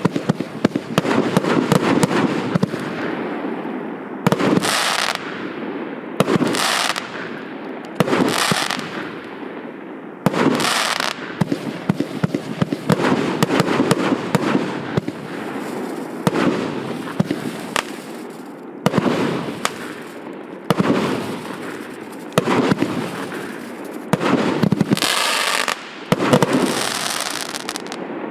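A 1.2-inch, 50-shot consumer fireworks cake firing shot after shot: sharp launch reports and aerial bursts every couple of seconds, with dense crackling between them.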